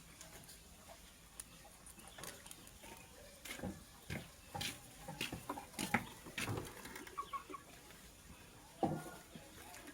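Scattered short bird calls and sharp clicks at irregular intervals, with a louder, lower call near the end.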